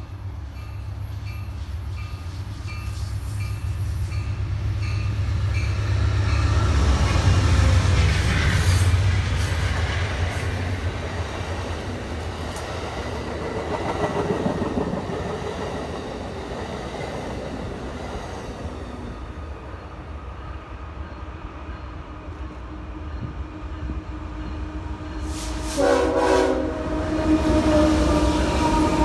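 A train passing close by with a heavy, steady rumble and wheels clicking on the rail joints, loudest about a third of the way in. Near the end it sounds a short, loud, multi-tone horn blast. Even high dings, about one and a half a second, sound in the first few seconds.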